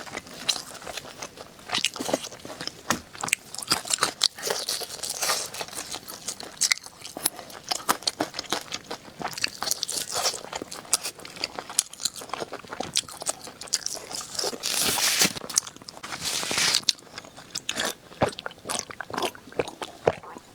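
Close-miked crunching, biting and chewing of spare ribs, with many sharp crackly crunches.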